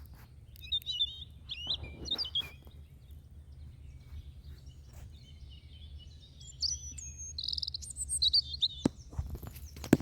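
Small birds chirping and trilling in two spells of quick high calls, with a couple of sharp knocks near the end.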